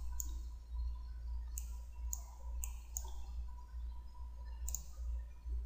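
Computer mouse buttons clicking: about six sharp, irregularly spaced clicks, over a steady low electrical hum.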